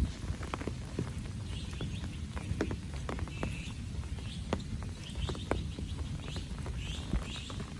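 Rain dripping in scattered ticks and taps over a low steady rumble, with short rapid chirps repeating every second or so.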